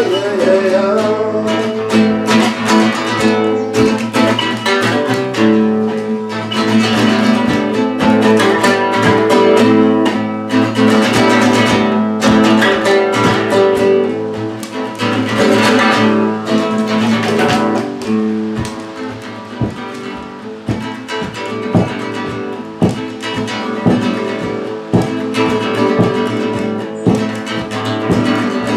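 Instrumental passage of a song without singing, carried by guitar plucked and strummed in a quick run of notes, easing off a little past the middle.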